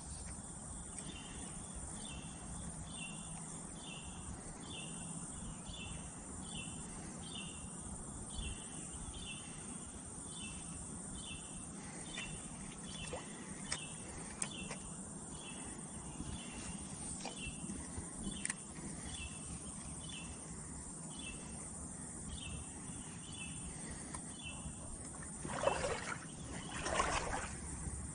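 An insect chirping in a steady rhythm, a short pulsed chirp a little more than once a second, over a hiss of outdoor background noise. Near the end come two brief, louder noises.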